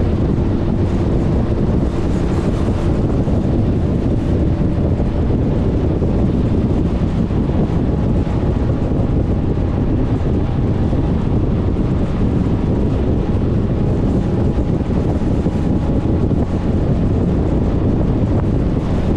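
Wind rushing steadily over the camera microphone of a Suzuki Burgman 400 scooter riding through traffic, with the scooter running underneath. A faint steady whine is heard around the middle.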